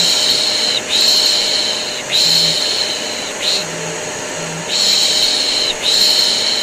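A voice shushing 'shh, shh' ('piş piş'), about one long shush a second with short breaks, over the steady whir of a vacuum cleaner: white noise for soothing a colicky baby to sleep.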